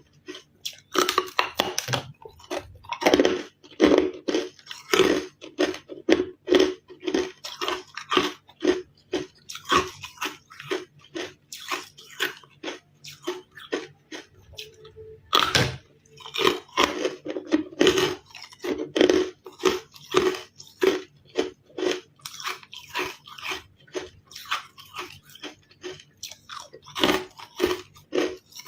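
A person chewing carbonated ice close to the microphone, crunching rhythmically at about two chews a second. Just past halfway there is a brief lull, then one sharp, loud bite into the ice, and the crunching resumes.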